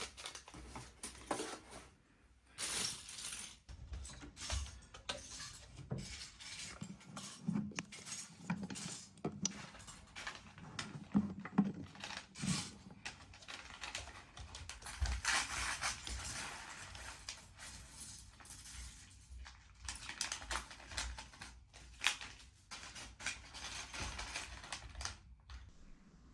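LEGO bricks and pieces being handled: many small, sharp plastic clicks and rattles, with some rustling.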